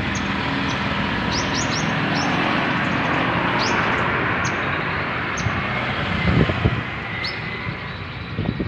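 Songbird giving short, sharp rising chirps: a quick run of them about a second and a half in, then single ones scattered later. They sit over a loud, steady rushing noise, with a few dull knocks from about six seconds in.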